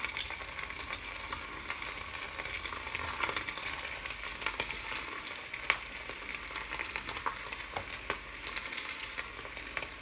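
Small meatballs frying in hot oil in a small saucepan: a steady sizzle with many small crackles and pops, one a little louder just past the middle.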